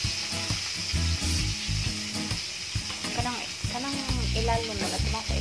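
Marinated chicken drumstick sizzling steadily in butter on a hot ceramic grill pan. Background music plays underneath.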